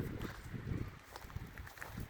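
Footsteps of someone walking over rough ground: soft, irregular steps with a few short scuffs and clicks.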